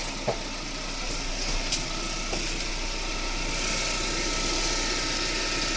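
Russian-made car engine idling with a faint steady whistle over the running noise and a few light ticks. The owner thinks the whistle comes from either the timing belt or the alternator belt, possibly new tensioners still bedding in.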